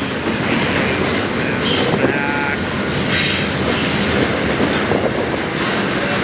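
Freight train cars rolling past, their wheels clicking and rumbling steadily over the rails, with a brief high-pitched wheel squeal about three seconds in.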